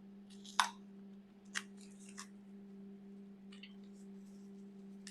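A plasma cutter, switched on, runs with a steady low electrical hum. Over it come a few light clicks and taps as air-line fittings and a pressure regulator are handled.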